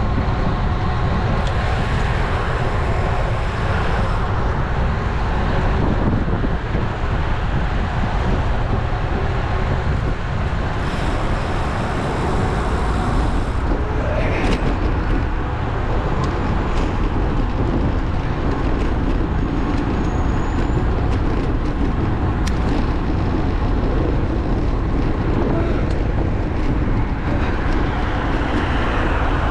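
Wind rushing over an action camera's microphone on a moving road bike, a steady rumble mixed with road traffic noise, with a few short clicks.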